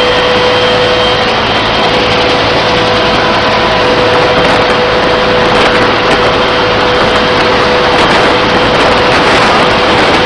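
Helicopter running: a loud, steady noise with a steady whine over it.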